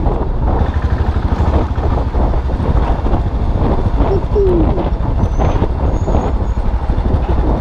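Custom motorcycle's engine running steadily while riding, a dense, even low pulsing.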